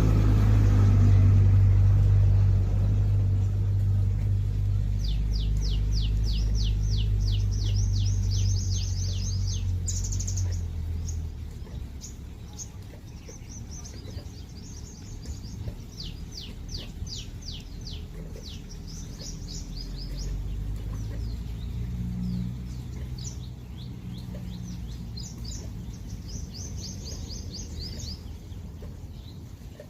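Songbirds singing in repeated trills, each a quick run of high notes at about four a second, coming back several times. A low engine rumble, like a passing vehicle, is loudest at the start and fades out about a third of the way in.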